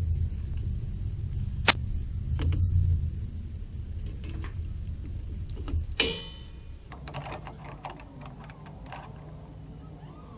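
Metal clicks and clanks from fitting a spring on a drum brake's shoe assembly: a sharp click a little under two seconds in, a ringing metallic clank about six seconds in, then a run of light clicks.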